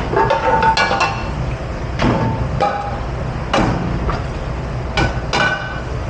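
Dishes and cookware clattering in a commercial dishpit: about six sharp clanks that ring briefly, over a steady low hum of kitchen machinery.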